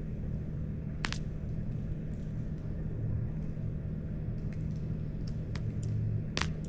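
Wood campfire burning with a steady low rumble, broken by sharp crackling pops of the burning wood: a loud pop about a second in, another near the end, and fainter ticks in between.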